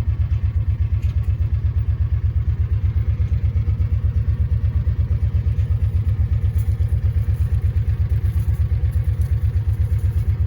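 A vehicle engine running steadily, with a rapid, even low pulsing.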